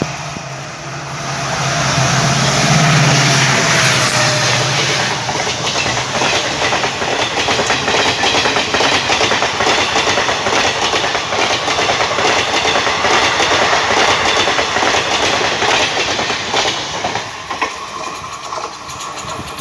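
Passenger train passing close at speed: a locomotive's low engine hum as it approaches, then the fast, continuous clickety-clack of the coaches' wheels over the rails, easing off near the end as the last coach goes by.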